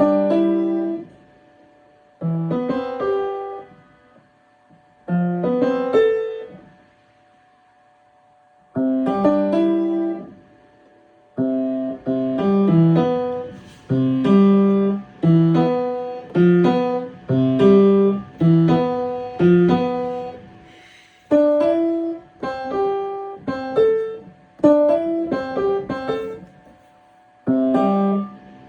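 Piano practice: short phrases broken off by pauses of a second or two, then from about eleven seconds in a steadier run of notes without stopping.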